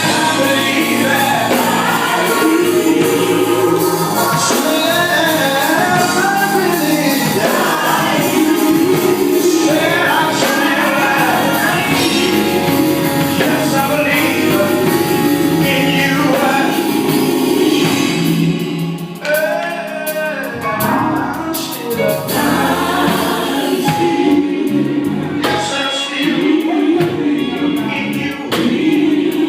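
Gospel quartet singing in harmony with band accompaniment, voices over a steady beat.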